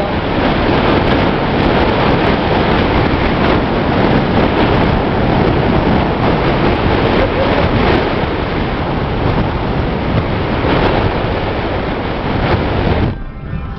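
Loud, steady road and wind noise of a vehicle travelling along a road, with wind buffeting the microphone. It cuts off abruptly near the end.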